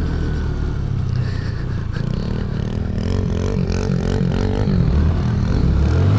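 Small single-cylinder four-stroke mini bike engine revving up and down repeatedly under throttle as the bike is ridden in snow.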